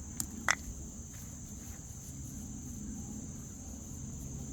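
Insects chirring in a steady, even high-pitched drone, over a low background rumble. Two sharp clicks come about half a second in, the second one louder.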